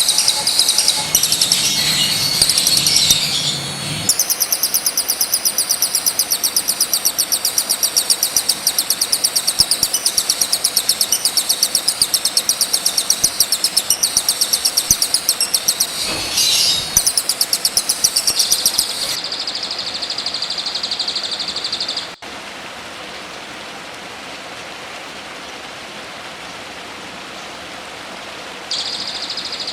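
Songbird masteran recording: a bird repeating very rapid, high chittering notes, later over a steady high buzz. The audio cuts abruptly about three quarters of the way through and carries on quieter before picking up again near the end.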